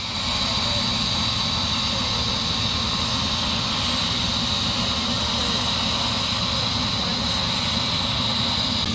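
Helicopter running steadily on the ground: a continuous loud turbine whine over a low rotor rumble.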